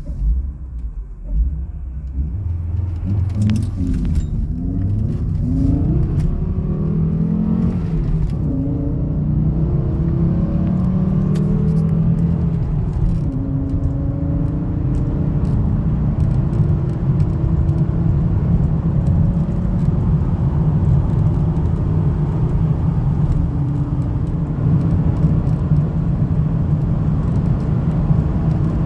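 Volvo V70 2.4 naturally aspirated inline-five engine running; its revs rise and fall a few seconds in, then it settles into a steady, even note for the rest of the time.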